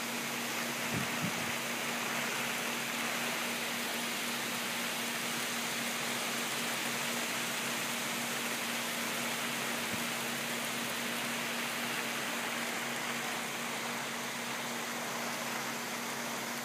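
Heavy rain falling steadily, an even hiss, with a faint steady low hum beneath it and a soft low knock about a second in.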